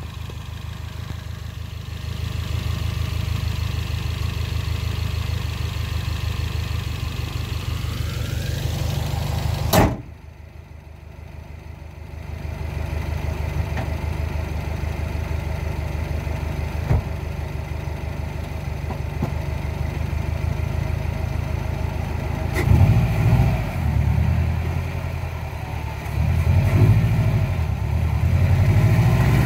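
Turbocharged 2.5-litre flat-four of a 2014 Subaru WRX fitted with a Cobb SF intake, idling steadily. A sharp knock comes about ten seconds in, and the sound is briefly muffled after it. The low rumble grows louder and uneven over the last several seconds.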